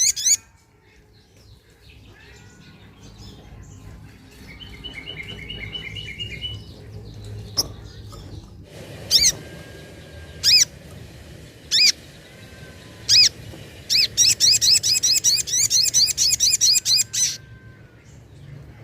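Sogok ontong (little spiderhunter) calling: four single sharp notes spaced about a second and a half apart, then a fast run of repeated notes for about three seconds before it stops. A fainter trill from another bird comes earlier, about five seconds in.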